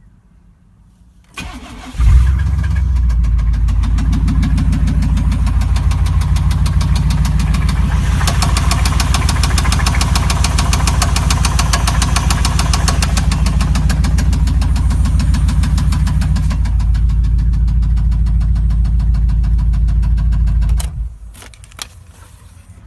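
5.7-litre V8 cranked by the starter, catching about two seconds in and running with a rapid, even knock from a worn connecting-rod bearing. The knock sounds sharper for a stretch in the middle, and the engine is shut off near the end.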